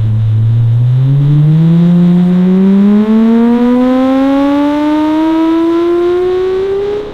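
Car engine revving up in one long, steady climb, its pitch rising smoothly throughout.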